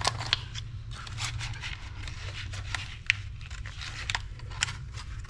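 Small fishing-reel parts being handled on a workbench: irregular light clicks and short scrapes and rustles, over a steady low hum.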